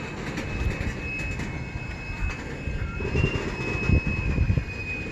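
CN freight train starting to roll after a stop at a signal: low rumbling and knocking from the cars, with a steady high wheel squeal held through most of it.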